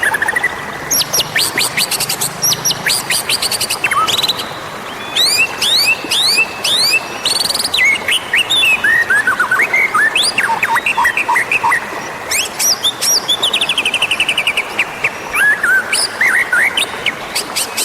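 White-rumped shama (murai batu) singing a fast, varied song of whistled glides, rapid trills and sharp clicking notes, with barely a pause.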